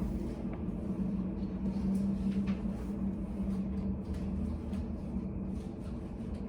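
Steady low hum of indoor room ambience, with a few faint ticks and taps.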